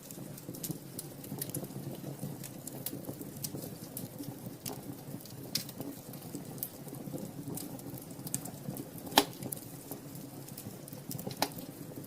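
Wood fire in a fireplace crackling, with scattered sharp pops over a steady low rumble of the flames; the loudest pop comes about nine seconds in.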